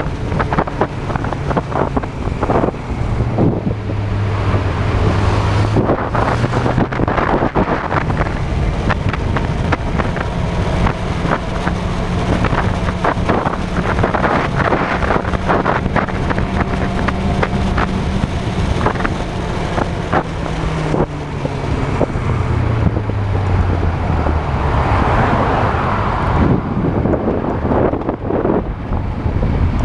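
Honda CB400 motorcycle engine running under way, picked up by a handlebar-mounted action camera with heavy wind buffeting on the microphone. The engine note climbs in the first few seconds, holds steady through the middle, then drops off after about twenty seconds as the bike slows.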